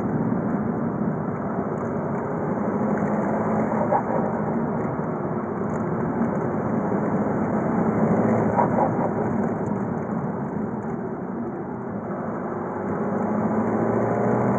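VW Golf Mk5 2.0 TDI BKD four-cylinder turbodiesel running steadily on the move. It eases off slightly about twelve seconds in and pulls again near the end.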